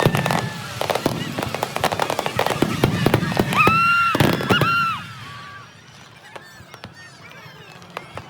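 Fireworks display: dense rapid bangs and crackling for the first five seconds, with two short pitched whistles about four seconds in. The bursts then thin out to faint scattered pops.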